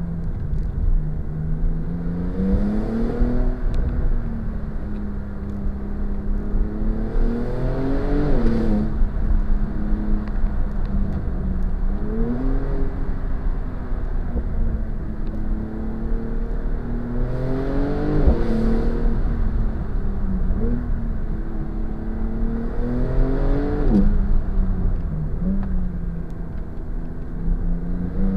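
Porsche 992 Turbo S's twin-turbo flat-six engine accelerating hard between corners: the revs climb and then drop about five times, over steady tyre and road noise, heard from inside the cabin.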